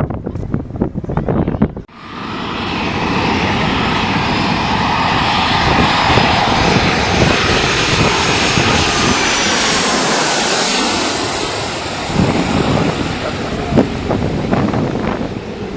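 A fixed-wing aircraft flying past, its engine noise coming in abruptly about two seconds in, holding loud and steady, then fading away about twelve seconds in. Wind buffets the microphone before and after it.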